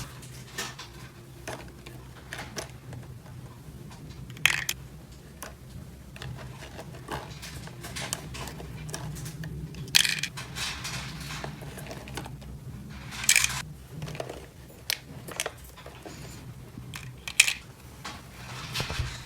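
Small plastic toy pieces being handled and set down: scattered light clicks and clatter, with four sharper clacks spread through, over a steady low hum.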